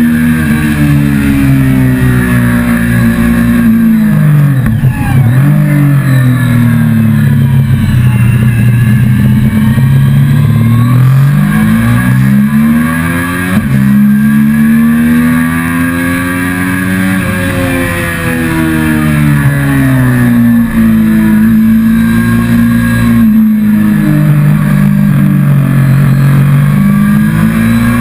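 Motorcycle engine recorded on board, pulling up through the revs and then easing off again several times as the bike rides through a series of bends, over steady wind rush.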